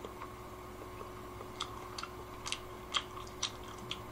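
Faint chewing of soft fish cake with the mouth closed: a scatter of short, wet mouth clicks at irregular intervals, over a low steady hum.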